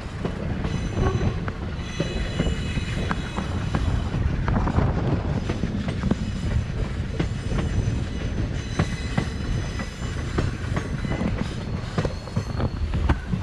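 Passenger train running along a curve, heard from an open coach window: a steady rumble of wheels on rail with sharp rail-joint clacks, and high thin squeals from the wheel flanges grinding against the curved rail that come and go.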